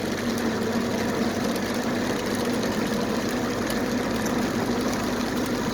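Steady vehicle cabin noise while driving: engine running and tyres on the road, with a constant low hum.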